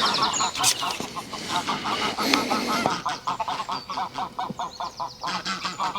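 Geese honking, many short calls in quick succession.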